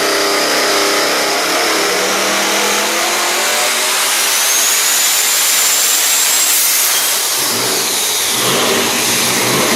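Devel Sixteen's own high-horsepower engine running hard at high revs: a loud, steady sound with a high whine that rises about halfway through.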